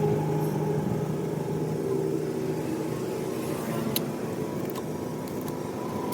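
Diesel truck engine idling, a steady low hum, with a few light clicks in the second half.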